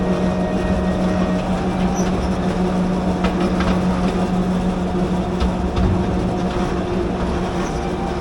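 Narrow-gauge forest railway train running: a steady low diesel drone with the wheels rumbling over the track, and a few sharp clicks partway through.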